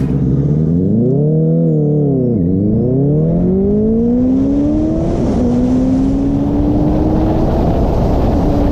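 Sport motorcycle engine under hard acceleration. The revs swell and fall back about two seconds in, then climb steadily, with the pitch dropping back twice, about five and seven and a half seconds in, as it shifts up a gear.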